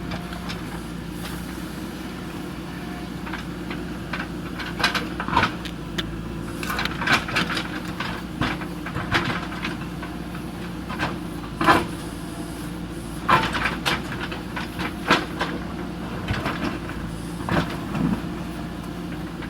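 JCB 3DX backhoe loader's diesel engine running steadily, with irregular sharp clanks and knocks scattered through.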